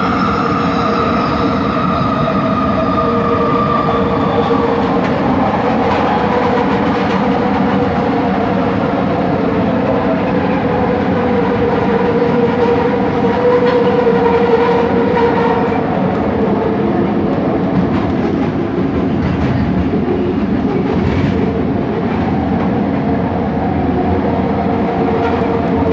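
Onboard a Bombardier Innovia ART 200 train in motion: the linear induction motor drive whines in several steady tones, one of them falling in pitch over the first few seconds, over continuous wheel and track rumble. This is the weird motor noise the recording is named for.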